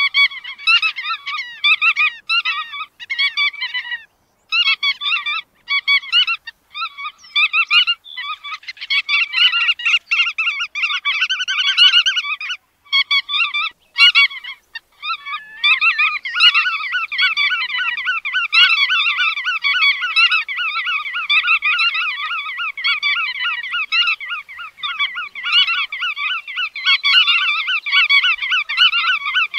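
Bar-tailed godwit calling: rapid, closely repeated call notes, broken by short pauses in the first half and running without a break from about halfway.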